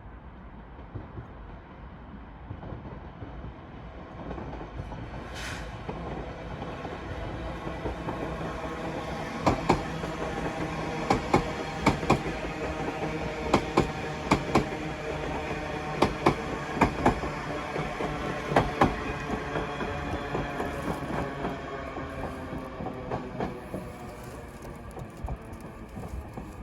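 A train running through the station, its steady hum building over the first few seconds. Its wheels click sharply in pairs over rail joints for several seconds in the middle, and a brief hiss comes near the start.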